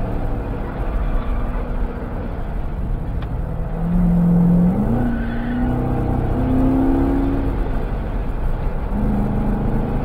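In-cabin sound of a 2019 Corvette Grand Sport's 6.2-litre V8 at track pace, its note rising and falling with the throttle through the corners and loudest about four seconds in, over steady wind and road noise.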